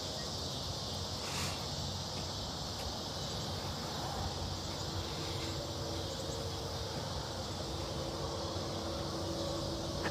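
Steady outdoor insect chorus, an even high-pitched buzzing with no breaks. A faint low steady hum joins in about halfway through.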